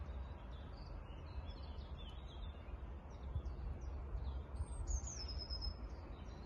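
Small songbirds chirping and singing with many short high calls, including a quick falling run of notes near the middle. A steady low rumble of outdoor noise runs beneath.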